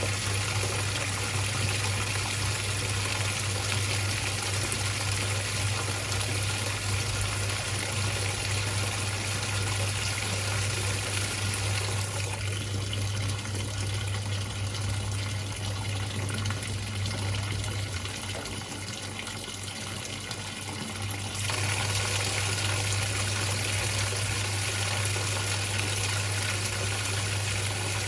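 Whirlpool top-loading washing machine filling its tub: water rushing in over a steady low hum. The rush of water eases for about nine seconds in the middle, then picks up again.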